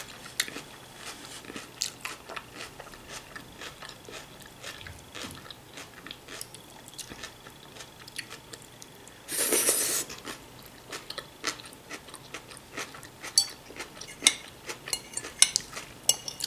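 Close-up chewing of crunchy raw vegetable salad (cabbage, cucumber, bell pepper), with many small crisp crunches that grow busier near the end. About nine seconds in there is a short, louder burst of noise.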